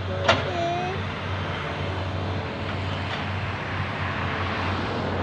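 Diesel engines of heavy earthmoving machinery, an excavator and dump trucks, running steadily: a continuous low drone with a sharp click about a third of a second in.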